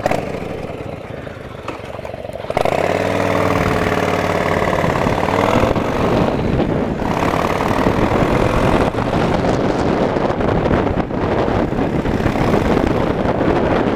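V-twin cruiser motorcycle engine idling, then pulling away about two and a half seconds in, its pitch rising as it accelerates, then running at road speed with wind noise on the microphone.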